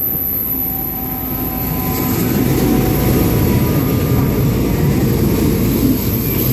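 V/Line passenger train carriages rolling past close by along the platform as the train comes in: a steady, heavy rumble of wheels on rail that grows louder about two seconds in.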